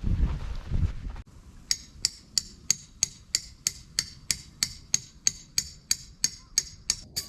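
A tent peg being driven in with a hammer: sharp, ringing clinks at about three strikes a second, starting after a second or so of wind rumble on the microphone.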